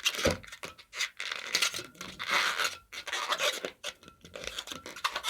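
Inflated latex modelling balloon being twisted and rubbed between the hands, giving a string of short rubbing and scraping bursts with faint squeaks.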